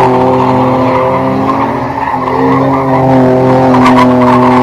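A car engine held at high, steady revs, with tyres skidding, as in a burnout or drift. The revs sag briefly about two seconds in and pick up again.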